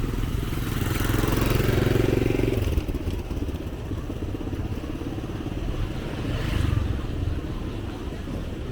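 Street traffic with motorbike engines running close by. One passes loudest between about one and three seconds in, and another swells up briefly near the end.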